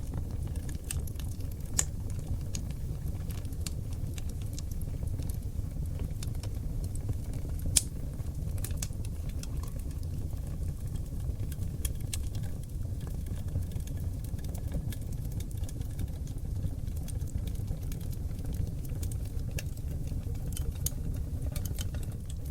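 Wood fire burning on seasoned oak logs: a steady low rumble of flame with scattered sharp crackles and pops, two louder pops about 2 and 8 seconds in.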